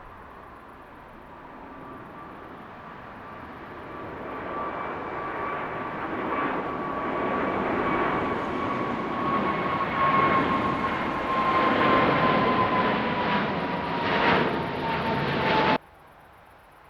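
Jet airliner's engines growing louder as it takes off and approaches, with a high fan whine that slowly drops in pitch. The sound cuts off suddenly near the end.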